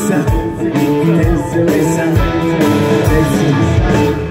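Live punk rock band playing an instrumental passage between sung lines: electric guitar and bass over drums.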